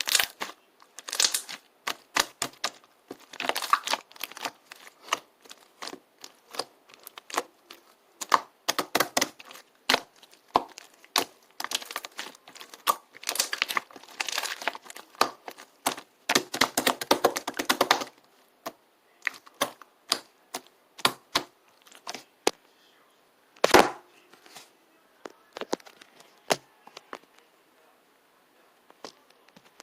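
Rapid crisp clicking and crinkling, dense for the first eighteen seconds or so, then thinning to scattered single clicks with one louder click about two thirds of the way through.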